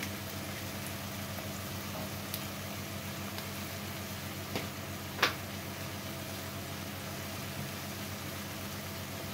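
Chicken and onion frying in a pan: a steady sizzle, with a few light clicks from a kitchen utensil, the sharpest about five seconds in.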